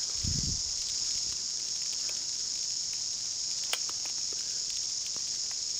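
A dense chorus of New Zealand chorus cicadas (Amphipsalta zelandica) singing: a steady, high-pitched, unbroken buzzing drone, really loud. A brief low rumble sounds just after the start.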